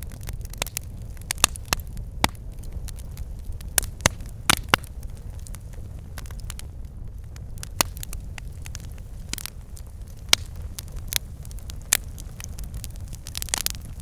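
Campfire burning: irregular sharp crackles and pops from the burning wood over a steady low rumble of the flames.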